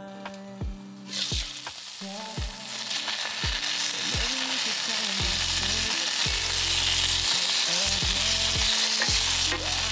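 Zucchini chunks sizzling as they fry in a hot pan, stirred with tongs. The sizzle sets in about a second in and grows louder.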